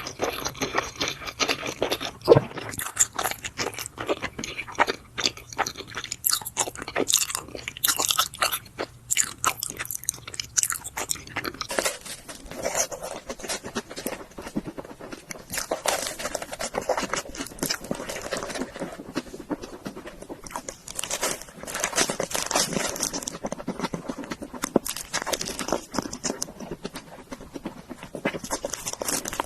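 Close-miked chewing of a meal of grilled beef intestine and turkey noodles: a dense, continuous run of quick, crunchy bites and wet chews.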